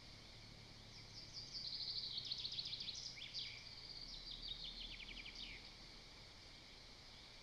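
A small songbird singing: quick trilled phrases of short falling notes, starting about a second in and stopping just before six seconds, over a faint steady high-pitched background.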